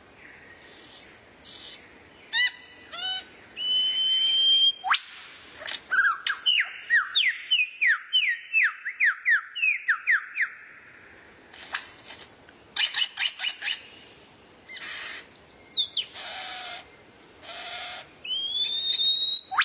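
Songbird singing a varied song: harsh buzzy notes, a long steady whistle about four seconds in, then a rapid run of quick falling notes from about six to ten seconds, followed by more harsh rasping notes and another rising whistle near the end.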